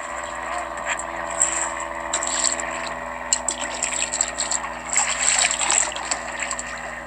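Water trickling and splashing around a kayak as it is paddled, with irregular small splashes from the paddle.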